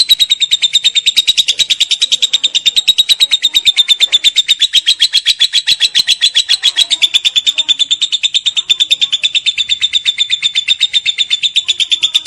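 Lovebird giving a long 'ngekek': one unbroken, loud, high-pitched chatter of rapid, evenly spaced notes at a steady pitch, the long continuous song prized in competition lovebirds.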